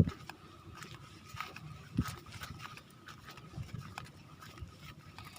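Footsteps and rustling of someone walking on a trail, with a few soft thuds, the clearest about two seconds in. A faint steady tone runs underneath.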